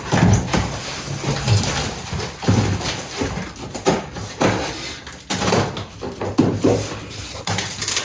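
Cardboard box and packing material of a large electric fireplace being opened and pulled apart, with irregular scrapes, rustles and knocks.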